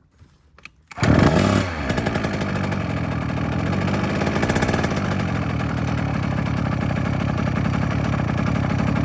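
Small 50cc two-stroke dirt bike engine, a 2012 KTM 50, starts up about a second in. It revs briefly, then settles into a steady, rapid idle.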